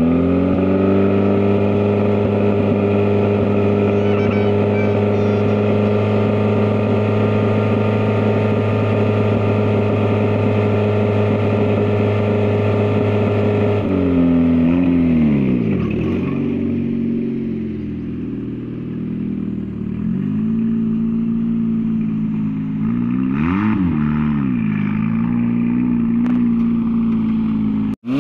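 Four-cylinder dirt track race car engine running at steady raised revs for about half the time, then dropping and rising in pitch and settling lower, with one quick rev up and back down near the end.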